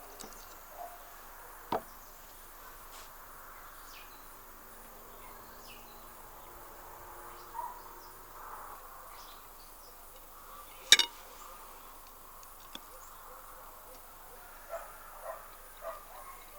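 Outdoor background with faint bird chirps and a few sharp clicks or cracks; the loudest, about eleven seconds in, is a quick double crack.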